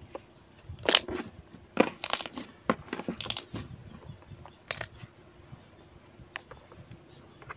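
Glue-based slime being squeezed and stretched by hand, making irregular pops and clicks. They come thickly in the first five seconds and more sparsely after that.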